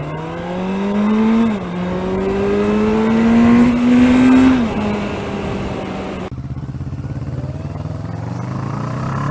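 Kawasaki ER-6n motorcycle's parallel-twin engine pulling away from a near stop and accelerating. Its pitch rises, drops at a gear change about a second and a half in, then climbs again until nearly halfway through before settling. After a sudden change in the background sound about two-thirds of the way in, the engine runs lower and slowly rises again.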